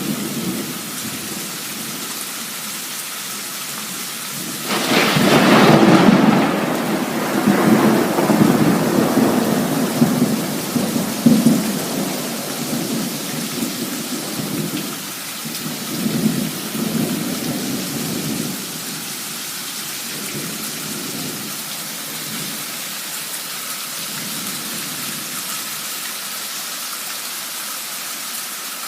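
Heavy downpour hissing steadily. About five seconds in, a sudden loud thunderclap rolls and rumbles, with a few further cracks, for over ten seconds before it dies back into the rain.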